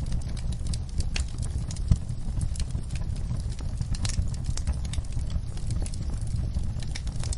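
Campfire burning, with irregular sharp crackles and snaps from the burning wood over a steady low rumble.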